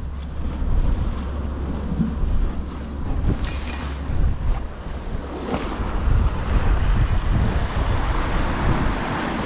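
Strong wind buffeting the microphone in gusts, over surf washing against rocks, with a few light clicks about three and a half seconds in.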